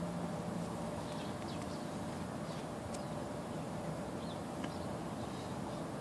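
Short, high bird chirps, about half a dozen scattered through, over a steady low outdoor hum.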